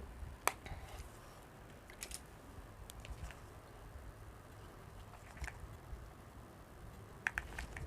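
A few faint, scattered small clicks and taps from a makeup compact and brush being handled while blush is put on, with a quick double click near the end.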